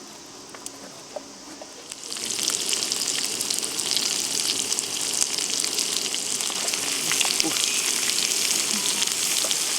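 Chopped vegetables hitting hot oil on a camping griddle, starting to sizzle about two seconds in and then frying with a steady crackle.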